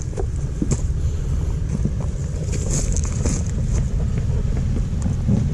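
Steady low rumble of a Toyota 4Runner crawling slowly along a rough off-road trail, with scattered faint clicks and rattles on top.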